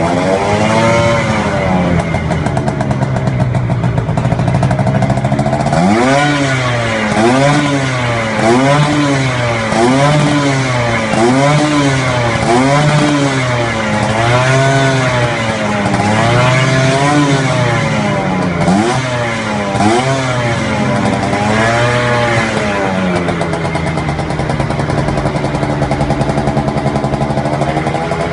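Vespa PTS two-stroke scooter engine running through an aftermarket racing exhaust, revved in repeated quick blips about once a second, then settling back to a steady idle near the end.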